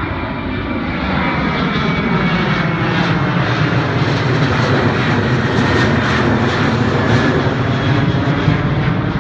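Jet airliner's engines at takeoff power as it climbs out low overhead, a loud steady rush that builds a little and holds.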